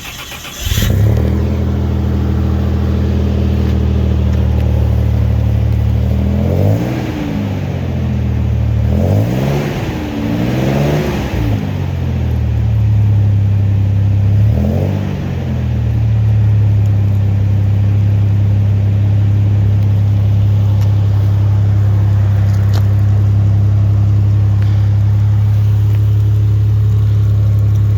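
Supercharged Toyota 3.4 V6 (5VZ-FE) exhaust through a 2.5-inch Magnaflow muffler on a straight pipe from the catalytic converter. The engine fires up just under a second in and idles. It is blipped through several quick revs, rising and falling, then settles back to a steady idle. It has a fairly tame tone.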